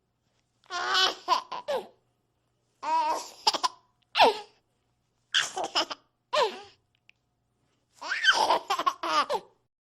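Bursts of laughter, about six short outbursts separated by brief silences.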